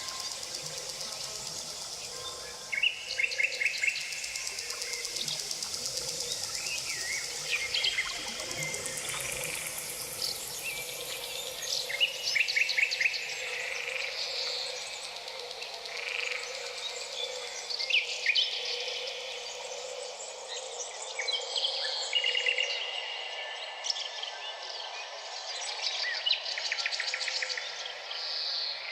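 Birdsong: several birds chirping and singing, with quick rattling trills that recur every few seconds, over a steady faint background hum.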